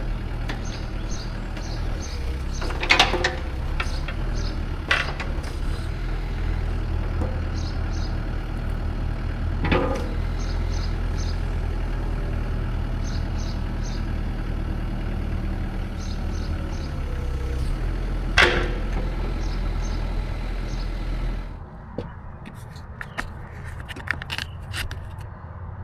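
Engine idling steadily, with a few sharp metallic clanks. The engine stops about 21 seconds in, leaving scattered light clicks.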